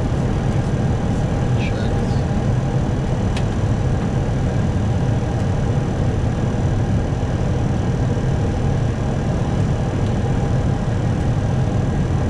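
Steady cockpit noise of an Airbus A321 on approach: airflow and engine noise, an even low rush, with a single click a few seconds in.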